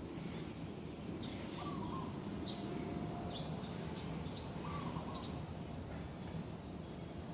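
Several birds calling in a garden: short high chirps throughout, and a short hooked call repeating about every three seconds, over a steady low background hum.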